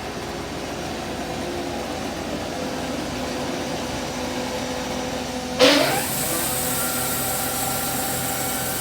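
Sawmill machinery running steadily with a hum. A little past halfway there is a sudden loud burst that sweeps in pitch, after which a steady hiss and a higher whine carry on.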